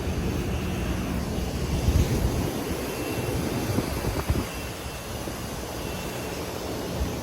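Carrier Infinity Greenspeed heat pump outdoor units running: a steady whoosh of fan air over a low compressor hum. A couple of low thumps come about two and four seconds in.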